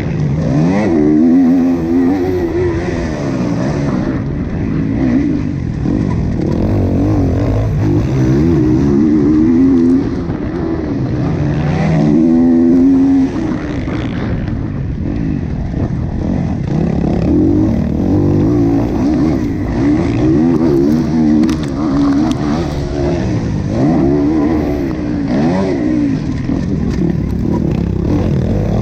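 Motocross bike engine racing around the track, revving up and easing off again and again as it accelerates and shifts, its pitch rising and falling every couple of seconds.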